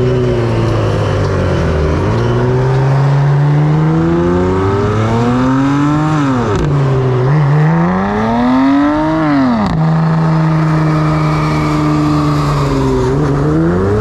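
Car engine revving: it holds steady, climbs slowly to a high pitch and drops back sharply, does so a second time, then settles to a steady note before rising again near the end.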